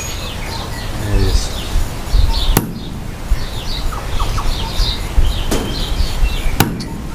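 Birds chirping in the background, with three sharp knocks spaced a few seconds apart.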